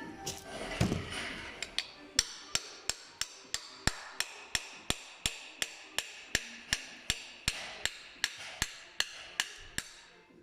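Hammer tapping steadily on a power steering pump part, about three sharp metallic knocks a second with a short ring after each, as a part is driven out during the bearing replacement.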